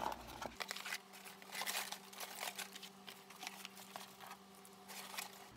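McDonald's paper wrappers and cardboard food boxes being handled, crinkling, folding and rustling in a run of short crackles. A faint steady hum sits underneath.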